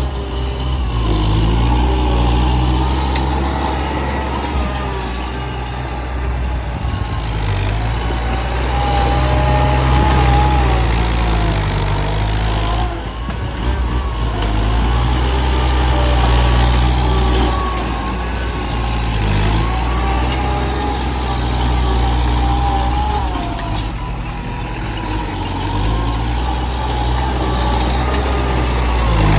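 Heavy truck engine running under load, its pitch rising and falling several times as it revs up and eases off.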